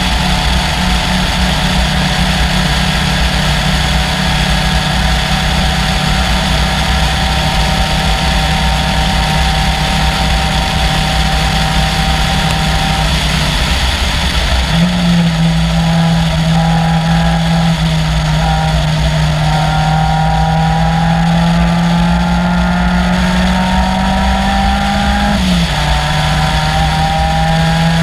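Caterham Seven's 2.3-litre Ford Duratec four-cylinder engine running hard under racing load, its pitch slowly climbing. The note breaks off for about a second halfway through and comes back higher, then drops sharply near the end, as on a gear change.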